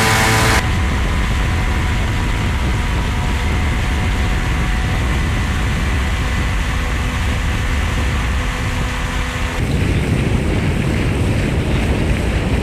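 Steady, loud engine drone, low and rumbling with a few faint steady tones above it. It changes abruptly about half a second in and again near ten seconds in.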